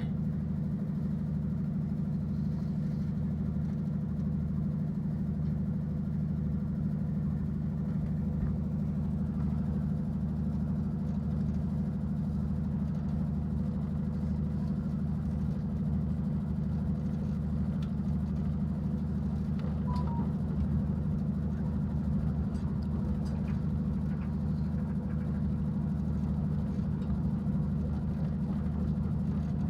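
Locomotive running steadily, a deep, unchanging hum with no rise or fall in pitch.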